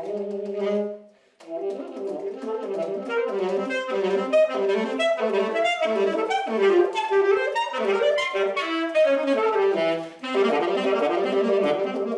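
Saxophone playing a fast, rippling solo passage of quick notes, with a short break just over a second in.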